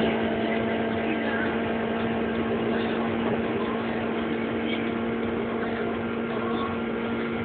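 Honda Integra's naturally aspirated four-cylinder engine held at high revs on the rev limiter, a steady high-pitched drone that does not rise or fall.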